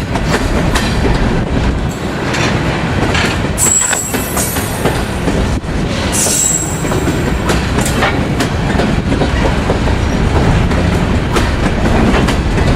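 Freight train cars rolling past, wheels clacking over rail joints, with brief high-pitched wheel squeals about four seconds and again about six seconds in.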